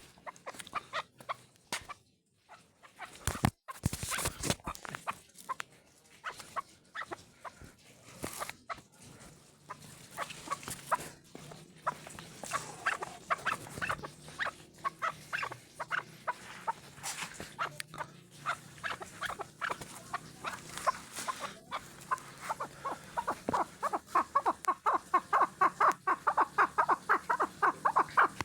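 Partridge giving short clucking calls, scattered at first, then building into a fast, even series of about five notes a second over the last several seconds. A few sharp knocks come early on.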